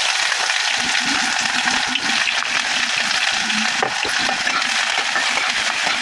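Chopped onion frying in hot mustard oil in a pan: a steady sizzle, with a few faint scrapes as it is stirred.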